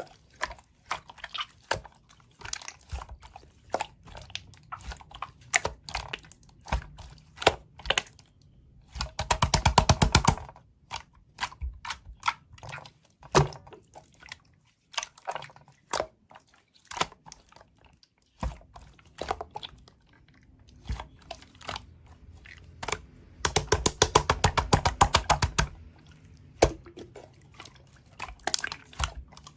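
Slime being squished and poked by hand, making sticky clicks and crackling pops at an uneven pace, with two spells of fast, continuous clicking, one about nine seconds in and a longer one about twenty-four seconds in.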